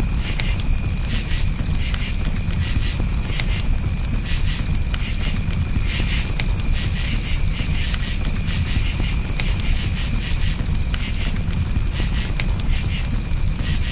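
Campfire crackling with sharp irregular pops over a steady low rumble, while crickets chirp in pulsing high trills.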